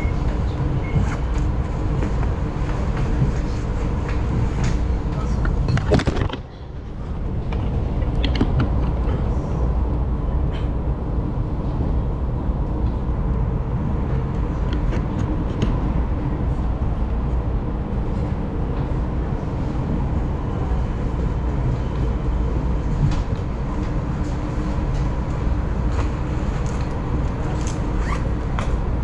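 Taiwan Railways local electric train running: a steady low rumble with a constant hum and scattered clicks and rattles. About six seconds in, the sound drops sharply for a moment, then builds back.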